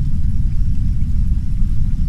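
Heavy brown noise: a steady, deep rumble with nearly all its energy in the bass and no changes. A much fainter hiss of soft rain sits above it.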